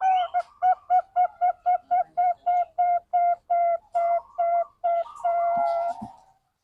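Zebra dove (perkutut bangkok) call used as a lure to set other doves singing: a quick run of short, even, steady-pitched notes, about four a second, ending in one longer held note.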